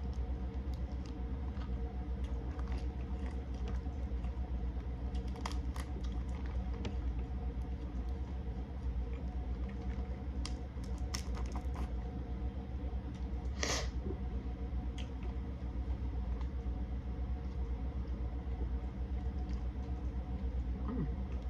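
Steady low hum throughout, with a few soft clicks and smacks from eating a seafood boil by hand.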